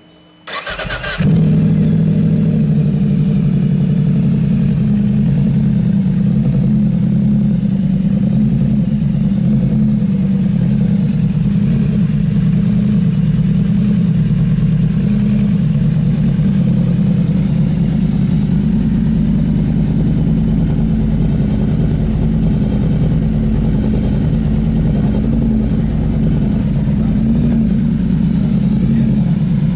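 Yamaha V-Max's V4 engine starting about a second in and then idling steadily.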